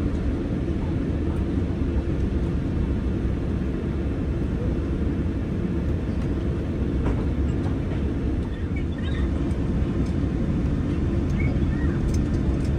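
Steady low rumble inside the cabin of a Boeing 787-10 airliner taxiing after landing.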